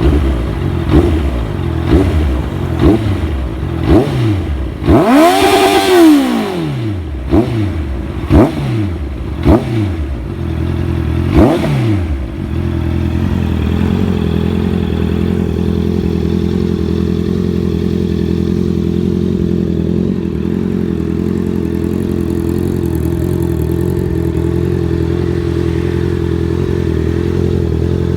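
Honda CBR650F inline-four engine through a DAIVO aftermarket exhaust, revved with repeated quick throttle blips and one long rev up to high rpm and back down about five to seven seconds in. A few more blips follow, then from about twelve seconds in it settles into a steady idle.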